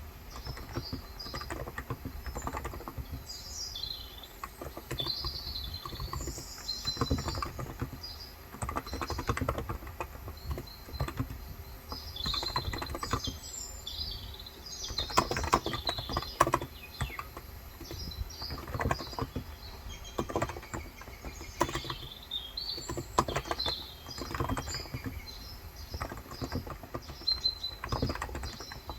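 Typing on a Cox Endeavour 35 g electrostatic capacitive (Topre-style) tenkeyless keyboard: soft keystrokes in quick, irregular runs. Small birds chirp in the background throughout.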